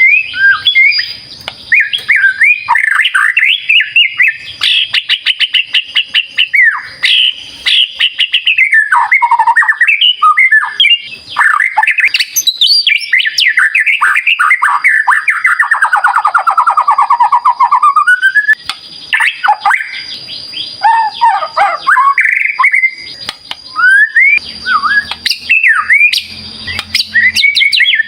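White-rumped shama (murai batu) in full song: a loud, continuous, highly varied stream of clear whistles, rapid chattering trills and harsh notes. About the middle, a long run of fast notes slides down in pitch and climbs back up.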